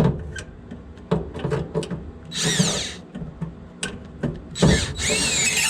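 Power drill/driver run in two short bursts, its motor whine rising and falling as it spins up and slows, among scattered clicks and knocks of handling metal parts.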